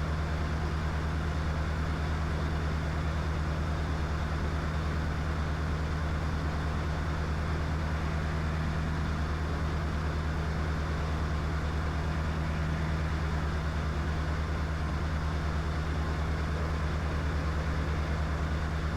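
Diamond DA20's four-cylinder piston engine and propeller running steadily at cruise power, a constant low drone heard from inside the cockpit during level flight on the downwind leg.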